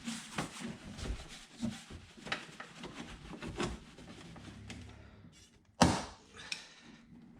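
Cloth wiping and scrubbing the bare sheet-metal inner door skin in a run of short strokes, then one sharp knock against the door about six seconds in and a lighter click after it.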